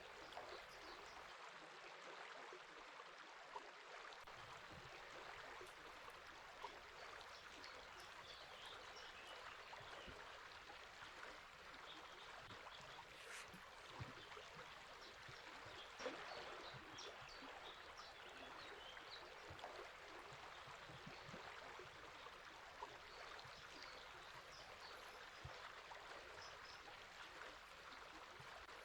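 River water flowing and burbling steadily, with faint bird chirps scattered through it.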